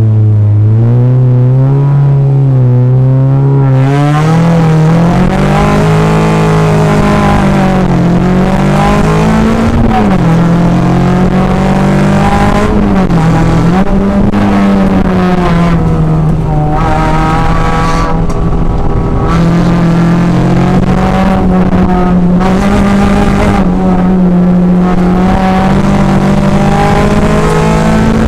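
Renault Mégane hillclimb car's engine, heard from inside the cabin, pulling away hard and accelerating up the course. The engine note climbs steadily for the first few seconds, then rises and drops repeatedly through gear changes and lifts for the bends.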